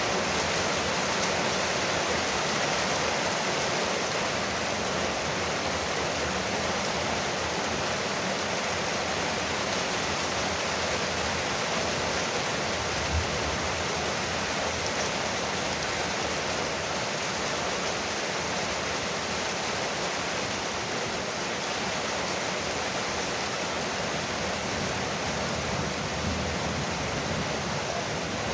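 Rain falling steadily on a porch roof, a dense, even hiss of drops. One soft low thump about halfway through.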